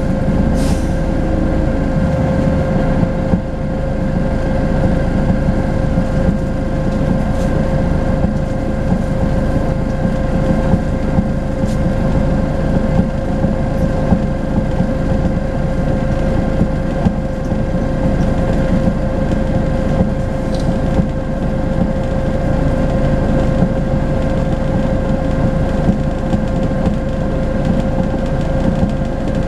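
Volvo B10BLE bus's horizontal six-cylinder diesel running at a steady speed: a constant low engine rumble with a steady turbo whistle over it that holds one pitch throughout. A few faint clicks sound now and then.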